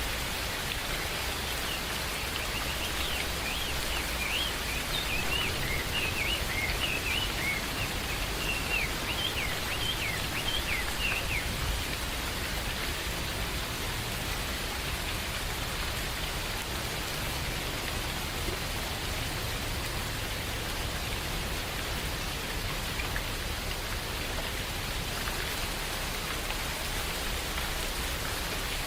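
Steady rain falling in a forest, with a bird giving a quick series of high chirps for several seconds in the first part.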